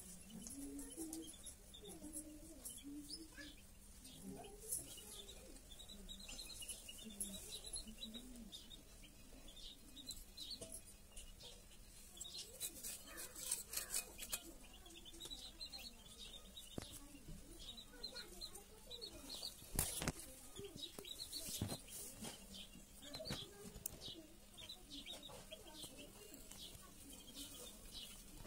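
Faint birds chirping in short repeated calls, with lower calls underneath and a few sharp clicks, the loudest about twenty seconds in.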